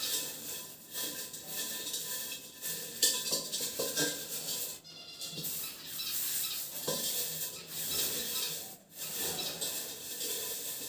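Dried grass rustling and crackling as it is stuffed by hand into a bird breeding pot, with scattered light clicks and knocks from handling the pot.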